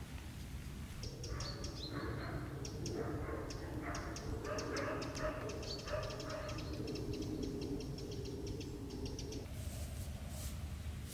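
Woodland birds calling, with a run of rapid high ticking notes and lower calls that start about a second in and stop near the end, over a steady low background rumble.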